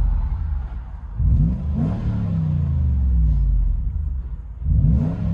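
2008 Toyota 4Runner's 4.7-litre V8 through a 14-inch Magnaflow muffler and the stock resonator, heard from inside the cabin. It is blipped twice, about a second in and again near the end, each rev rising quickly and then falling slowly back toward idle; the exhaust note is a deep rumble, tuned for performance rather than loudness.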